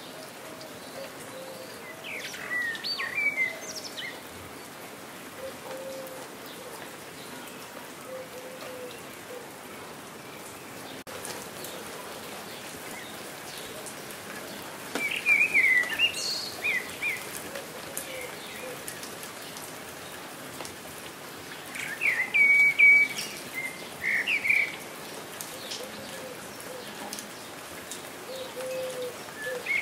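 Steady rain falling, with songbirds chirping in short bursts of song three times: about three seconds in, near the middle, and about two-thirds of the way through. Soft low coos recur underneath.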